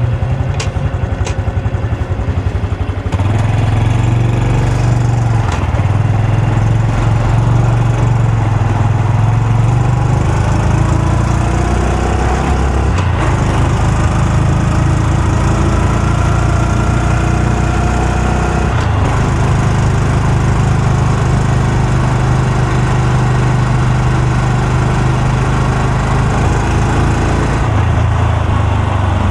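Honda Super Cub C125's air-cooled single-cylinder four-stroke engine and exhaust, ticking over slowly at first, then pulling away about three seconds in. The pitch climbs through the gears with brief dips at the shifts, holds steady at cruising speed, and eases off near the end.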